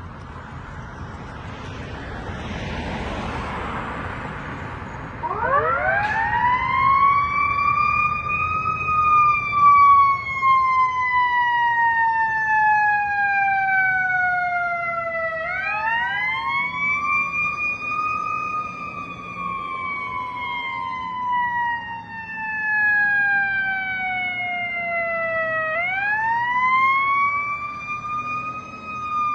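Fire apparatus siren starting up about five seconds in and then wailing: a steady rise in pitch followed by a long, slow fall, cycling about every ten seconds. Before it starts there is a rushing vehicle noise.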